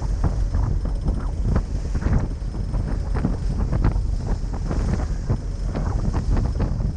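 Wind buffeting the microphone in irregular gusts over a steady low rumble, as heard on the open deck of a moving ferry.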